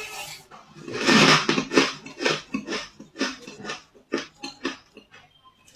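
Ice being bitten and chewed close to the microphone: a quick run of crisp crunches, loudest about a second in, then thinning out near the end.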